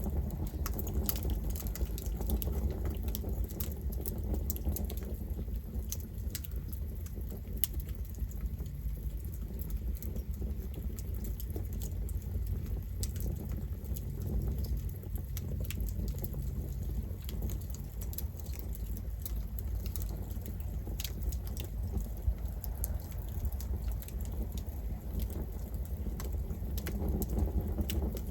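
Campfire burning, with a steady low rumble of flame and many irregular sharp crackles and pops from the burning wood.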